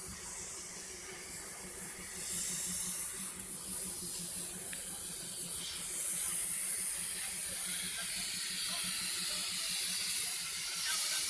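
Steam locomotive hissing steadily as it vents steam, the hiss getting louder partway through, over a faint low hum.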